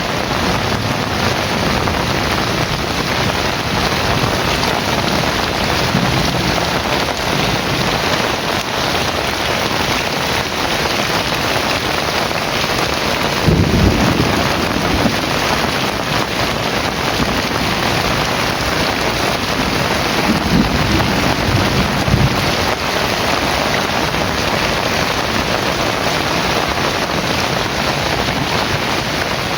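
Heavy rain falling steadily, with a low rumble of thunder about halfway through and another a few seconds later.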